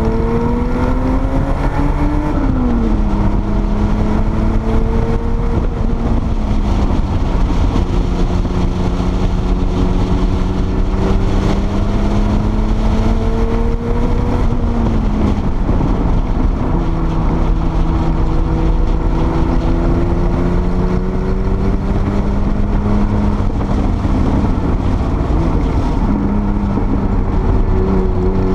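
Porsche 930 Turbo's air-cooled turbocharged flat-six at speed on track, heard from inside the car over heavy wind and road noise. Its pitch climbs slowly under acceleration and falls sharply several times.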